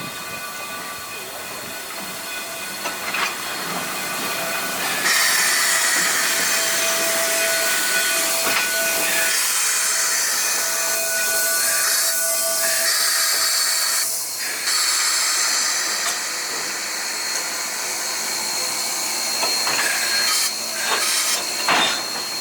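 Narrow-gauge steam locomotive venting steam: a loud hiss that builds over the first five seconds and then holds, with a few faint steady tones under it.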